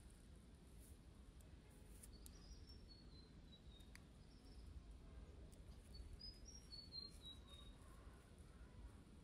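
Faint bird song: two short phrases of quick high notes falling in pitch, about two and six seconds in, over a low steady rumble.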